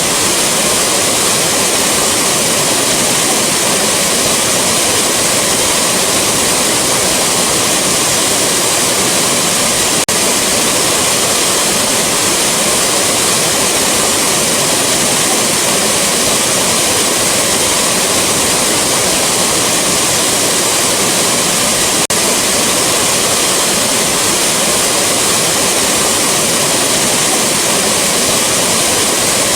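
Rushing waterfall: a steady, loud, hissing roar of falling water, unchanging throughout.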